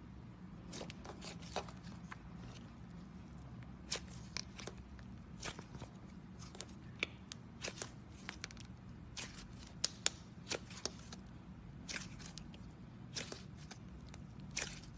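Slime being squeezed and stretched by hand, giving irregular sharp clicks and pops as trapped air bubbles burst, over a steady low hum. The sound cuts off suddenly at the end.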